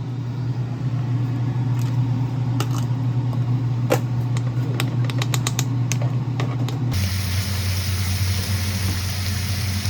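A steady low mechanical hum with a run of light clicks through the middle. About seven seconds in it switches abruptly to a different, lower hum with more hiss.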